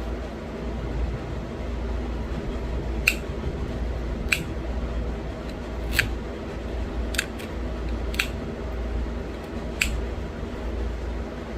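Pressure flaking a small bird point from a thin stone flake: sharp little clicks as tiny flakes pop off the edge, about six of them spaced a second or so apart, starting about three seconds in.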